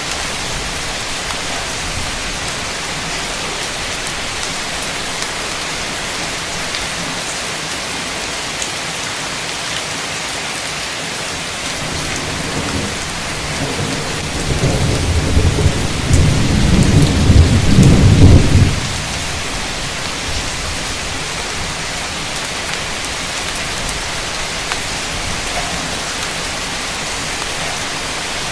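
Heavy rain falling steadily, with a roll of thunder that builds about halfway through, rumbles loudest for four or five seconds, then cuts off fairly suddenly.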